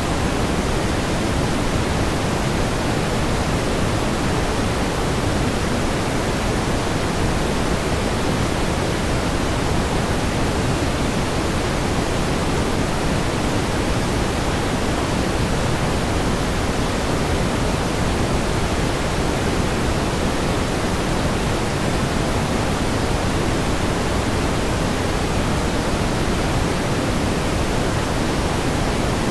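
Steady pink noise: an even, unchanging hiss weighted toward the low end, with no pulses or changes.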